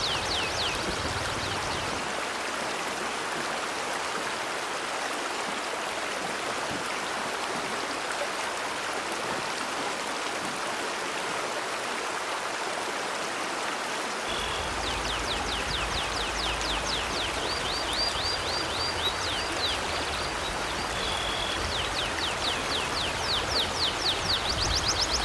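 Steady rushing of a river's flowing water. In the second half a bird chirps over it in quick runs of short falling notes.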